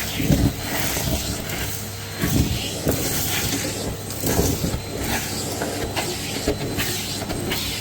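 Canister vacuum cleaner running with a steady motor hum and suction hiss, with irregular low bumps and a few clicks as the tool is worked over the floor.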